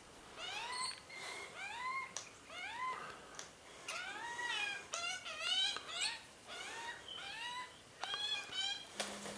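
Birds calling over and over, in a close run of short whining calls that rise and fall in pitch, several overlapping.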